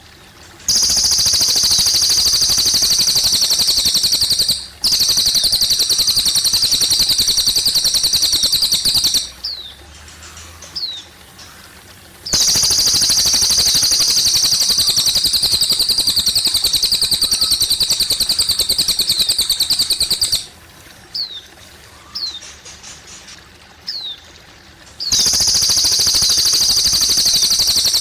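Cililin bird singing in long, very fast high trills lasting several seconds each, four times, with short falling chirps in the quieter gaps between. Trickling water runs softly underneath.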